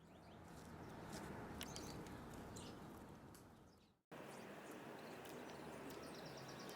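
Faint outdoor ambience with a few short, high bird chirps, from birds at a backyard feeder. It fades out about four seconds in and cuts to another stretch of similar ambience.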